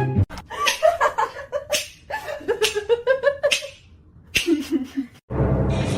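A person laughing in short, choppy bursts, after background music cuts off. Near the end another sound starts abruptly.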